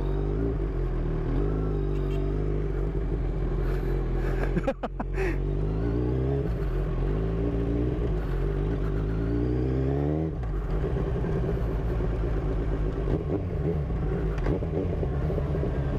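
Kawasaki Z1000's inline-four engine pulling hard under acceleration. Its pitch rises, then drops abruptly at a gear change about five seconds in and again around ten seconds, before holding steady.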